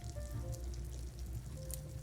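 Steady rain with a low rumble and scattered light ticks, under a soft melody of short held notes stepping down in pitch.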